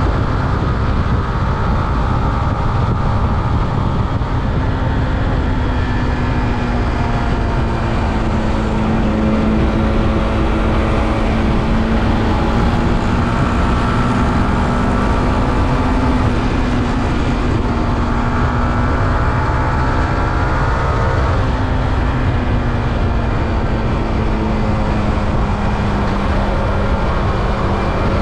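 Yamaha R15M's 155 cc single-cylinder engine through its stock exhaust, running under way at a fairly steady speed. Its note rises and falls slightly in pitch over a heavy low rumble.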